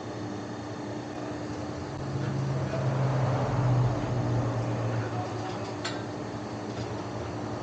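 A vehicle engine running, swelling louder for about three seconds a couple of seconds in, then easing back to a steady hum.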